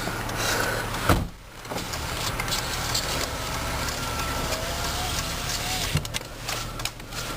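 2003 GMC Envoy's Vortec 4200 inline-six idling steadily, with a loud thump about a second in and a smaller knock about six seconds in.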